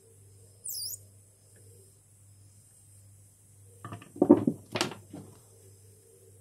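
A brief high-pitched chirp about a second in, then a short clatter of several knocks between about four and five seconds in, the loudest part.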